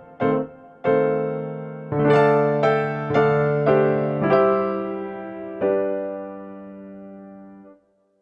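Background music: a piano-like keyboard playing slow struck notes and chords, each note fading away. It dies out into silence shortly before the end.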